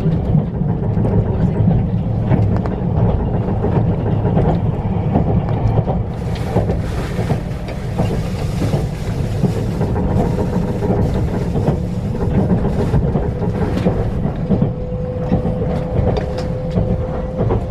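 Train cabin rumble while under way: a steady low rumble with scattered rail clicks, a hiss from about six to thirteen seconds in, and a faint whine that rises slightly near the end.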